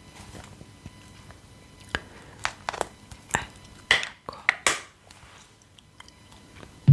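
Gum chewing close to the microphone: a scatter of sharp wet clicks and snaps, most of them in the middle of the stretch.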